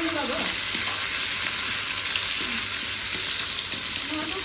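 Food sizzling steadily in hot oil in a pan, with faint voices at the start.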